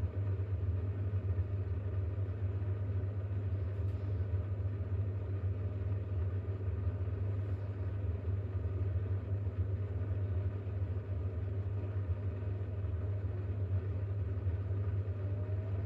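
Bosch WAX32GH1 front-loading washing machine in its intermediate spin with an unbalanced load of towels: the drum and motor spinning with a steady low hum.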